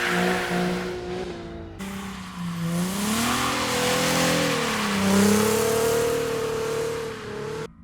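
Drift car engine held high in the revs under a wide hiss of spinning, sliding tyres; the sound breaks off after nearly two seconds and picks up on another pass where the engine revs climb, dip and climb again, then cuts off abruptly near the end.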